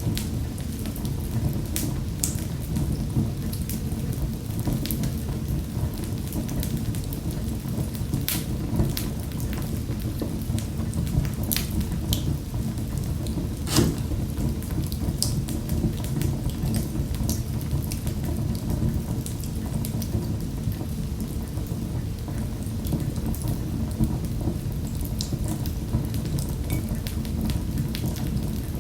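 Wood fire crackling in a fireplace: a steady low rumble with irregular sharp pops and snaps, one louder pop about halfway through.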